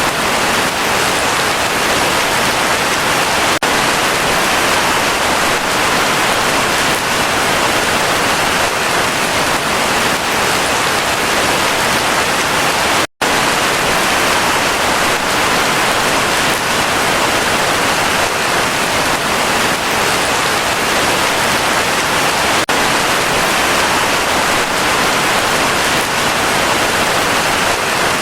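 Heavy rain falling steadily as a dense, even hiss. It cuts out for an instant about halfway through, then resumes unchanged.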